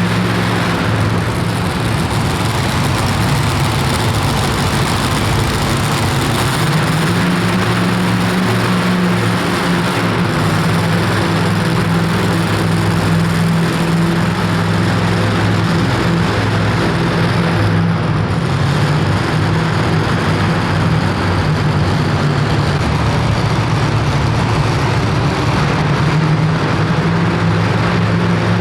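Super modified two-wheel-drive pulling truck's engine running at full throttle during a pull, loud and unbroken at a steady high pitch.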